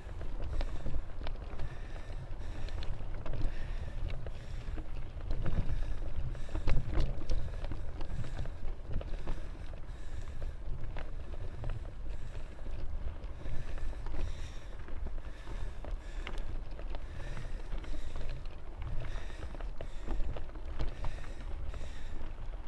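Off-road bicycle ride heard on an action camera: steady low rumble of wind and tyres on a dirt trail, with frequent clicks and rattles from the bike over rough ground.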